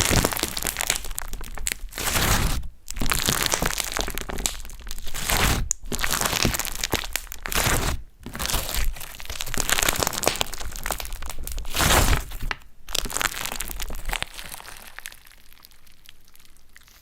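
Slime being squeezed and worked by hand, crackling and crunching in irregular bursts with short pauses, quieter near the end.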